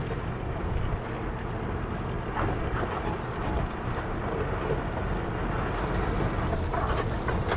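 Wind buffeting the microphone over a steady low rumble, with a few faint knocks around the middle and near the end.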